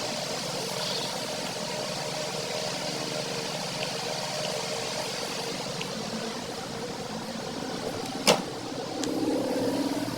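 Steady hum of background noise with one sharp click about eight seconds in, then a dog starting a high, drawn-out whine near the end.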